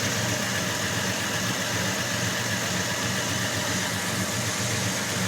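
1965 Chevy C10 pickup's engine idling steadily.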